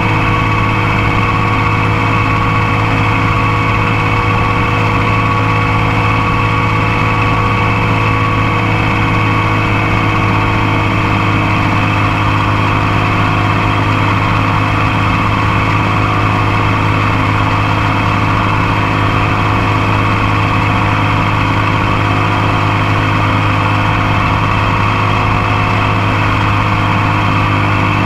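Motorcycle engine running at a steady speed, heard close up from the foot peg, with an even drone that neither rises nor falls.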